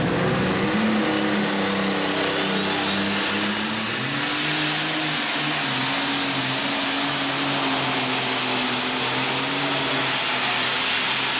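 Alcohol-burning super stock pulling tractor engine at full throttle during a pull. Its note climbs in steps over the first few seconds and then holds steady, with the high whistle of its turbochargers rising and staying up.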